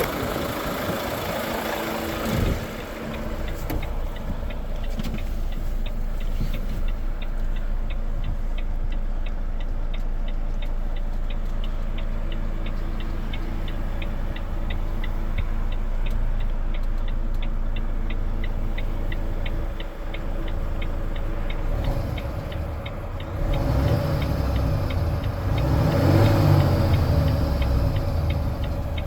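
Volvo FH 460's 13-litre six-cylinder diesel idling, with a fast, even run of light ticks over it. Near the end the engine gets louder and fuller for a few seconds.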